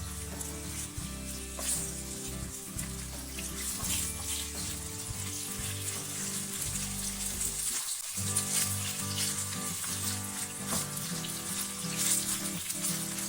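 Food sizzling as it fries in a pan, a steady hiss, with background music playing along.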